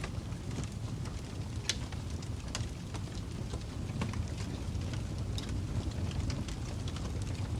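Wood fire burning with a steady low rumble and scattered sharp crackles and pops, a few of them louder, about 1.7 and 2.6 seconds in.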